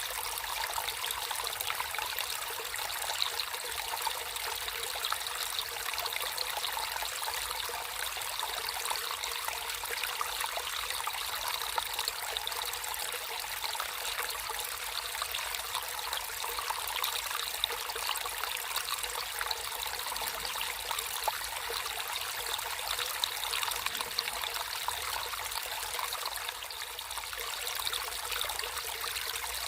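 Naturally flowing water trickling and splashing steadily, full of fine small splashes, with no pause or change.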